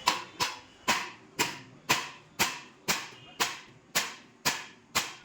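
A steady series of sharp knocks, about two a second, each with a short ring, like something being struck repeatedly.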